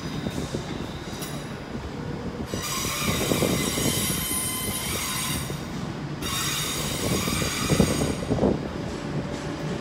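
A train running slowly through the station, its wheels squealing shrilly against the rails over a low rumble. The squeal comes in twice, starting about two and a half seconds in and again about six seconds in.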